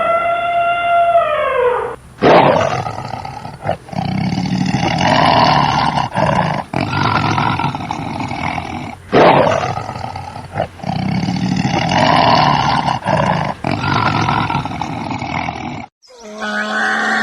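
A large animal roaring: a short call falling in pitch, then two long, rough roars of about seven seconds each, each starting sharply.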